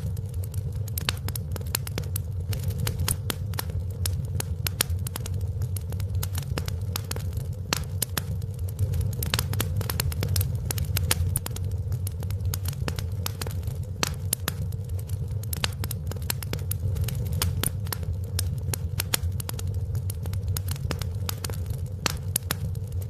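Wood fire crackling in a fireplace: dense, irregular pops and snaps, several a second, over a steady low rumble of the burning.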